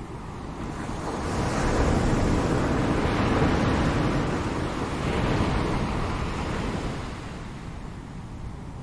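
Ocean surf: a wave breaks and washes in, its rushing noise swelling about a second in and fading away near the end.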